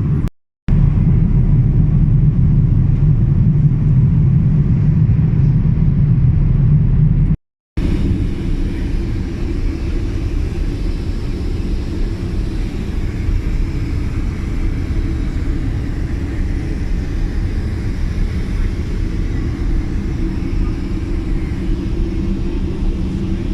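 Boeing 787 Dreamliner cabin noise: a steady low rumble, cut off to silence twice, briefly just after the start and again around seven and a half seconds in.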